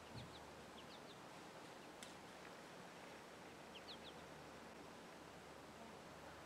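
Near silence outdoors, broken by a few faint, short, high bird chirps in two small groups, about a second in and again near four seconds, with a single faint tick about two seconds in.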